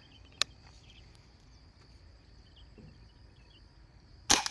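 Insects chirring steadily in a field, with one sharp click about half a second in and a loud, short T-Rex PCP airgun shot near the end.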